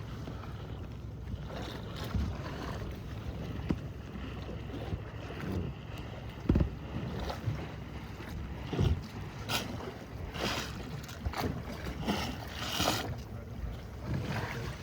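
Steady low rumble with wind on the microphone, and a scattered run of short, sharper sounds near the middle.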